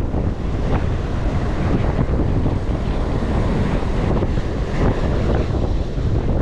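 Strong wind buffeting the microphone, a loud, continuous low rumble.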